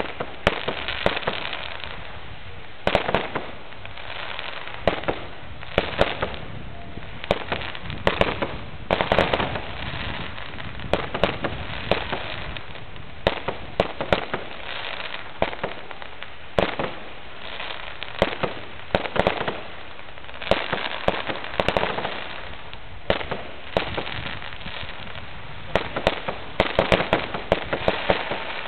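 Fireworks display: aerial shells bursting with sharp bangs that come in clusters every second or two, with steady crackling in between.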